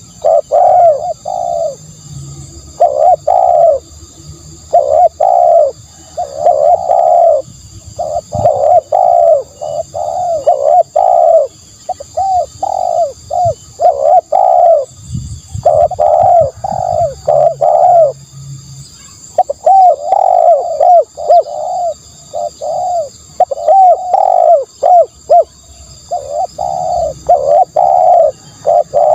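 Spotted dove cooing: short, rounded coo notes repeated in quick groups, phrase after phrase with brief pauses between.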